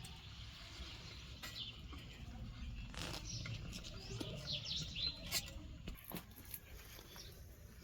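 Small birds chirping in short calls, bunched about four to five seconds in, over a low background rumble, with a few sharp clicks scattered through.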